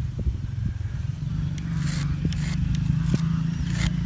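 A small engine running steadily with a low hum that grows louder about a second in, with a few short scraping sounds over it.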